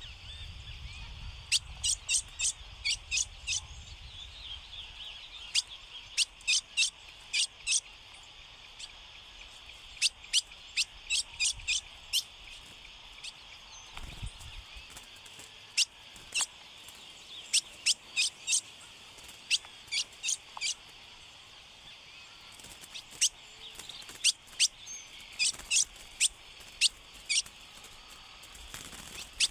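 Ultramarine grosbeak (azulão) giving short, sharp chip calls in quick runs of three to seven notes, again and again, over a steady high insect-like hiss.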